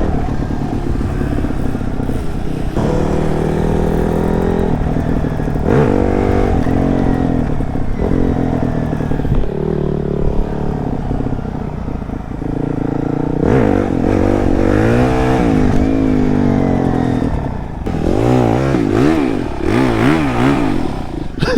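Dirt bike engine being ridden hard, revving up and falling back again and again as the throttle is worked, with quicker rises and drops near the end.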